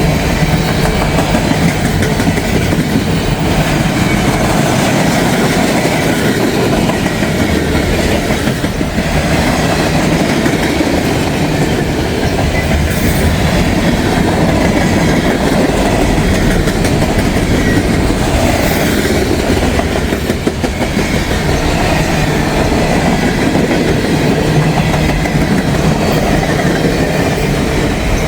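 Freight cars of a long CSX train rolling past close by: a steady, loud rumble of steel wheels on rail, with clickety-clack over the rail joints.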